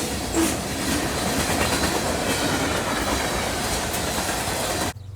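Train rolling past close by: steady wheel-on-rail noise with clickety-clack knocks of wheels over rail joints. The sound cuts off suddenly just before the end.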